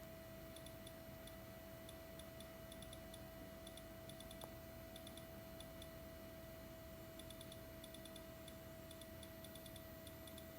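Faint, irregular ticking clicks in small clusters over a steady low hum, close to silence.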